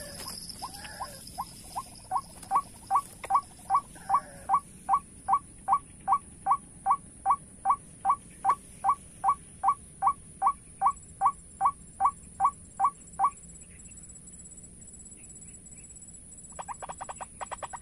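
White-breasted waterhen calling: a long, evenly spaced series of short call notes, about two and a half a second, that stops about 13 seconds in. A quicker rattling burst of calls starts near the end. A steady high insect whine runs underneath.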